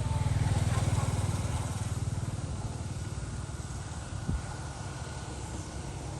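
A motor vehicle's engine running close by, loudest in the first second or so and then slowly fading as it moves away, with one short knock about four seconds in.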